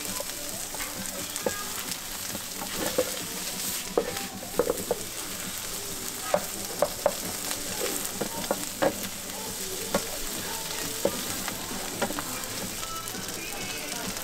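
Sundae (Korean blood sausage) and onions sizzling in a nonstick frying pan as a wooden spatula stirs and scrapes them, with a scatter of short knocks of the spatula against the pan.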